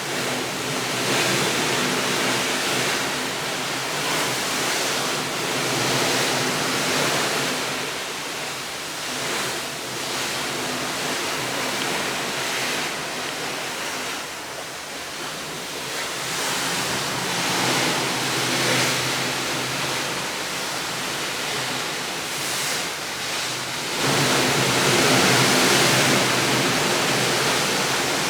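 Surf washing ashore in a steady rush, swelling every four or five seconds as waves break, and louder for the last few seconds.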